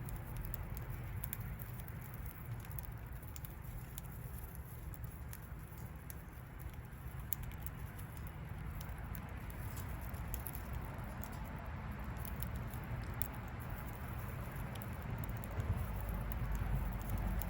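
Hand-fed budgie with soft, irregular small clicks and pattering, typical of its beak working at the food, over a steady low background rumble.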